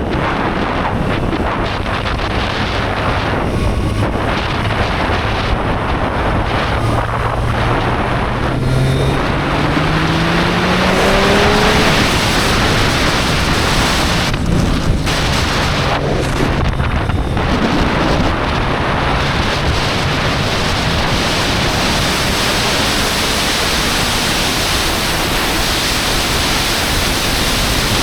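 Triumph Street Triple 765 R's three-cylinder engine under way, its revs climbing for several seconds, then dipping briefly twice in the middle before running steadier. Strong wind noise on the microphone lies over it.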